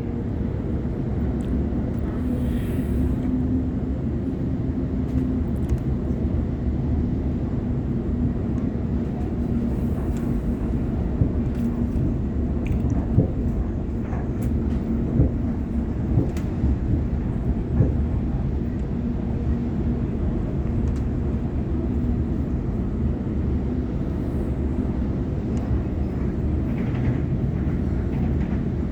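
Sydney Trains Waratah electric multiple unit running at speed: a steady low rumble of wheels on rail, with a few sharp clicks through the middle.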